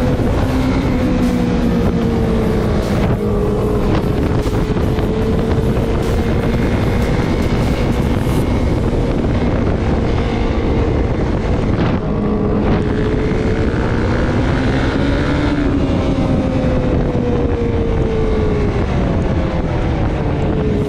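Off-road vehicle engine running at steady cruising speed, its pitch drifting gently up and down, with heavy wind noise on the microphone.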